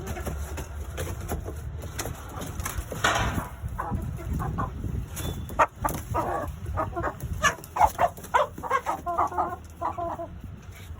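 Six-month-old Aseel chickens clucking: a run of short, rapid clucks and calls that grows busier about halfway through, over a low rumble.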